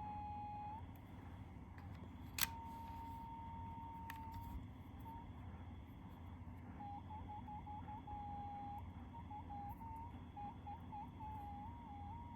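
Fake AirPods 3 earbuds giving out a weird electronic beeping: a single high tone that stutters in rapid short beeps and at times holds steady. A sharp click comes about two and a half seconds in, then a held tone, then a quiet gap, and the stuttering beeps start again past the middle, over a low steady hum.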